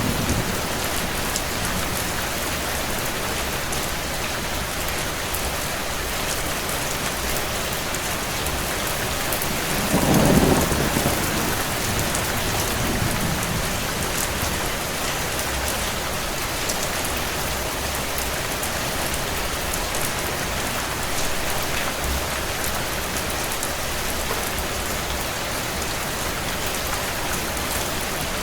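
Steady rain hiss, with a low roll of thunder about ten seconds in that fades over a few seconds.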